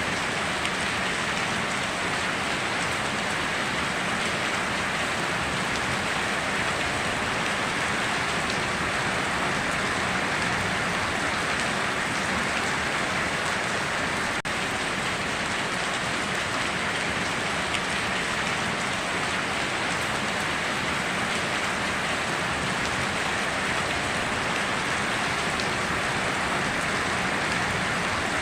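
Steady heavy rain falling and pattering on surfaces, an even hiss with no breaks or thunder.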